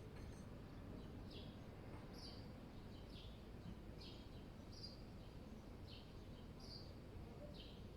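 A small bird chirping over and over, short high chirps about once or twice a second, some sweeping down and some short clipped notes, over a faint steady low rumble of outdoor background noise.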